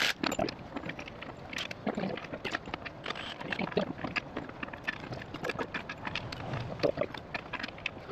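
Irregular clinks, taps and knocks of hand tools and metal parts being handled during engine repair work. Some strikes ring briefly.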